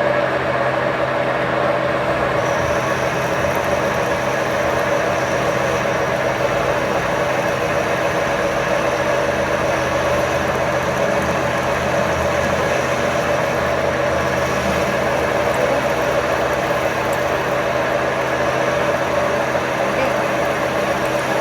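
A machine running steadily: an even hum with several held tones that does not change in pitch or loudness.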